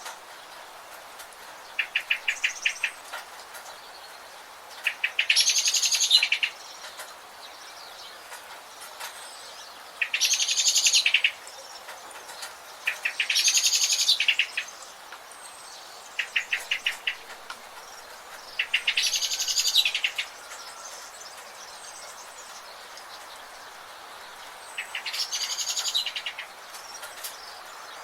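Birds singing: a loud, high, trilled song phrase about a second and a half long, repeated five times at intervals of a few seconds. Two short bursts of rapid, even chirps come between the phrases, over a steady background hiss.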